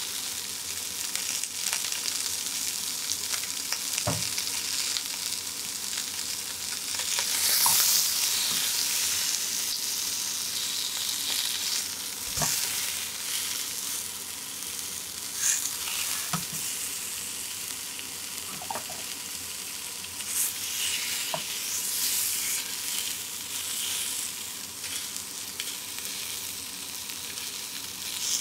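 Pieces of shark meat sizzling steadily as they pan-fry in a nonstick frying pan, the sizzle swelling about eight seconds in. A few sharp taps of tongs against the pan come as the pieces are turned.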